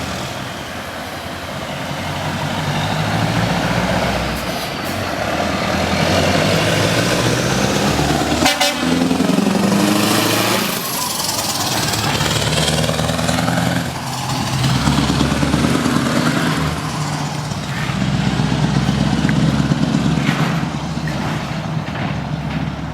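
Scania R650 V8 truck engine running through an open straight exhaust pipe, its note rising and falling under acceleration. It passes close by about ten seconds in.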